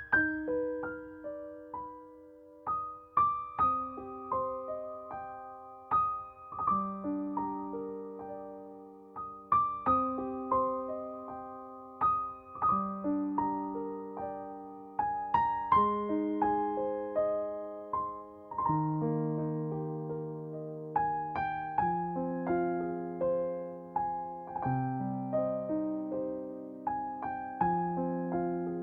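Background music: a slow, gentle solo piano piece, single notes and soft chords struck and left to ring.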